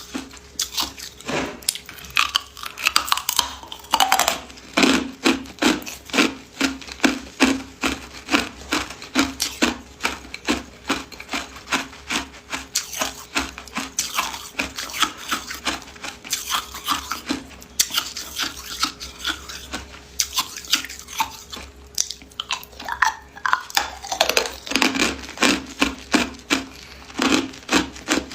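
Hard ice being bitten and chewed close to the microphone: a steady run of sharp, cracking crunches, about two to three a second.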